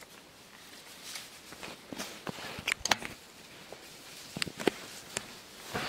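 Irregular light clicks and taps, several in quick succession in the middle and another cluster near the end, with no steady sound beneath them.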